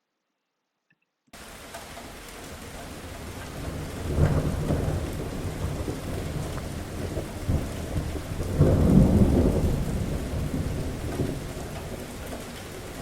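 Recorded thunderstorm sound effect. A steady hiss of rain starts suddenly about a second in. Thunder rumbles about four seconds in, and a louder, longer roll follows around nine seconds.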